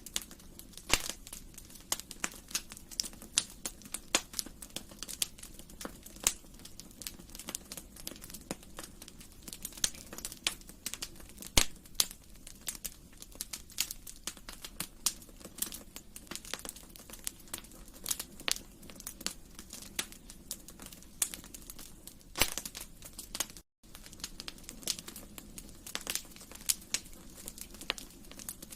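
Wood fire in a fireplace crackling, with many irregular sharp pops and snaps over a soft low bed of flame noise. The sound cuts out completely for a split second about two-thirds through.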